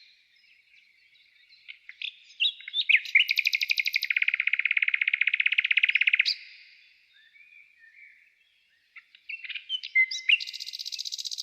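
Songbirds singing: scattered high chirps, then a long fast trill starting about two seconds in and lasting some four seconds. After a short lull come more chirps and a second, higher trill near the end.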